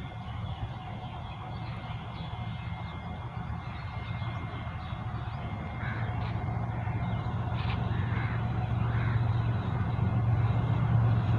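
Pakistan Railways GEU-40 diesel-electric locomotive approaching, its engine drone growing steadily louder. Crows caw a few times in the second half.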